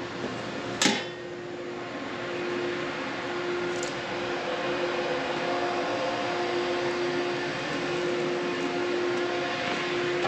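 Farm machinery running with a steady hum and a constant tone, with a sharp click about a second in.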